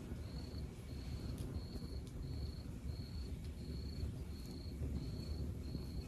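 Log fire burning, with a low rumble and a few sharp crackling pops. Over it a high, even chirp repeats about one and a half times a second.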